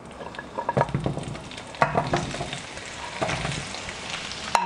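Carrot slices dropping into hot oil in a frying pan, a series of taps as they land over a steady sizzle of frying.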